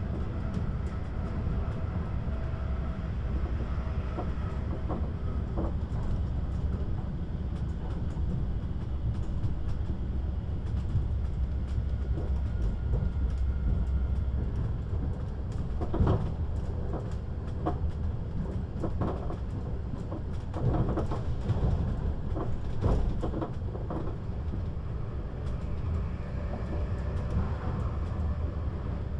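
Siemens Desiro HC electric multiple unit running on the line, heard inside the passenger car: a steady low rumble of wheels and bogies on rail. Scattered clicks and knocks from the track come through it, the sharpest about halfway through and a cluster a few seconds later.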